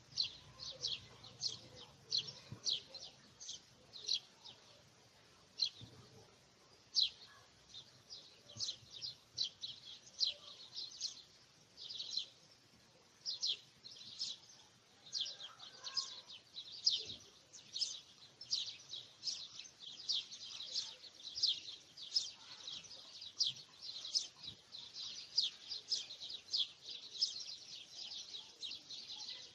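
Small birds chirping: short, high chirps repeated several times a second, with a couple of brief pauses.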